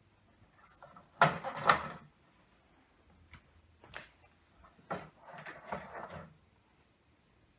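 Clattering handling noises: knocks and rattles of hard parts in three bursts. The loudest is about a second in, with short knocks near four seconds and a longer rattle from about five to six seconds.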